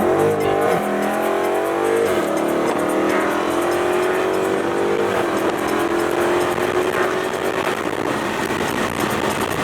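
Car engine pulling hard under full throttle, its pitch climbing and then dropping at gear changes about a second, two seconds and five seconds in. It then holds a steadier note that gives way to a steady rushing noise near the end.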